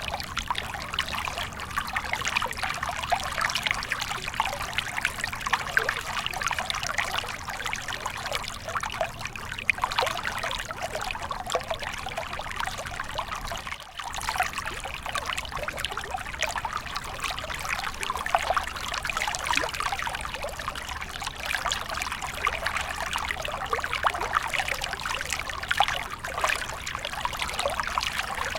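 Small stream of water flowing steadily with a dense, bubbling trickle, dipping for a moment about halfway through.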